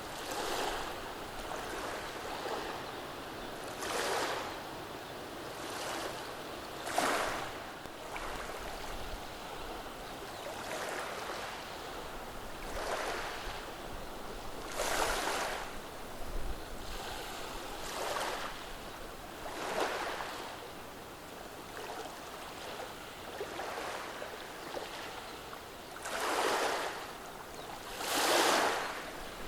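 Gentle waves washing over a beach of rounded pebbles, with a steady wash of water and a dozen or so separate surges a few seconds apart, the loudest two near the end.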